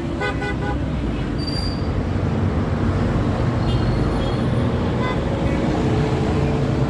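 Steady low rumble of passing motor traffic, with faint brief higher tones above it.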